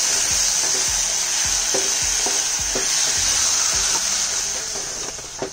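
Onion-tomato masala sizzling in hot oil in a nonstick pan while a spatula stirs it, scraping the pan about twice a second. The sizzle eases off near the end.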